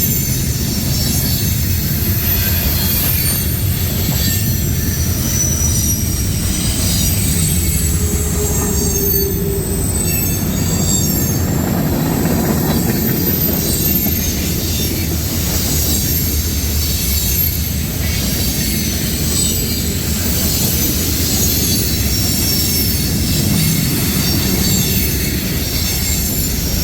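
Freight cars of a long mixed freight train rolling past at speed. The wheels and cars make a loud, steady rumble on the rails, with thin high-pitched wheel squeal over it.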